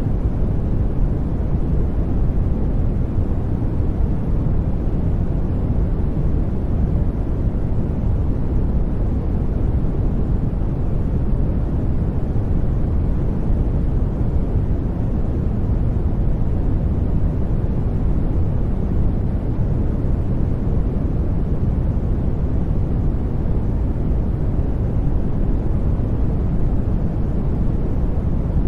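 Steady noise track for studying, a deep, even rush weighted toward the low end, with no rhythm or changes.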